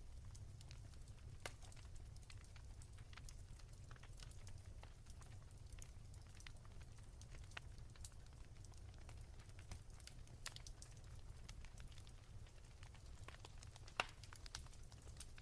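Wood fire crackling softly: scattered faint pops and snaps over a low steady rumble, with one sharper pop near the end.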